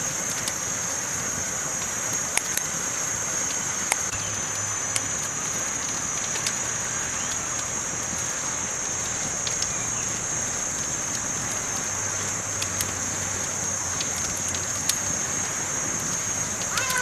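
Campfire burning: a steady hiss with scattered sharp crackles and pops from the burning wood.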